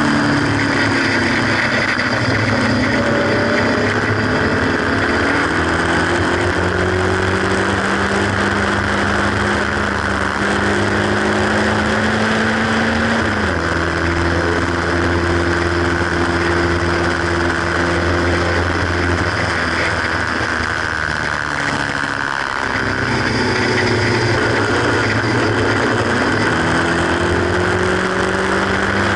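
Haynes Roadster kit car's 1800 engine heard from the open cockpit under hard acceleration on track. The revs climb and then drop sharply at a gear change about halfway through. Near the end the car eases off briefly and pulls hard again, with steady wind rush throughout.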